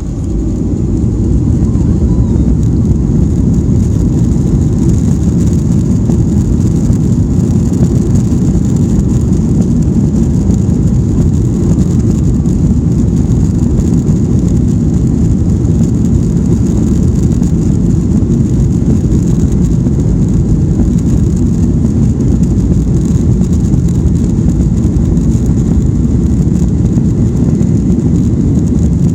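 Boeing 737's jet engines at takeoff power: a loud, steady rumble that builds over the first couple of seconds and then holds, with a thin high hiss above it.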